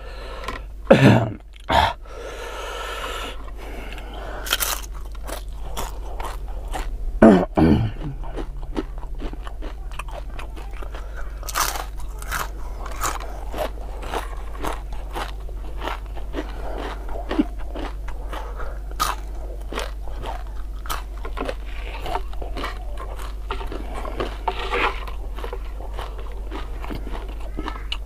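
Close-miked crunching and chewing of crispy deep-fried tempeh fritters with raw bird's eye chilies: many crisp bites and wet mouth sounds, the loudest about a second in and again about seven seconds in.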